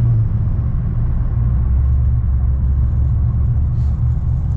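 2010 Camaro SS's 6.2-litre V8 running under way, a steady low rumble that drops to a lower note shortly after the start.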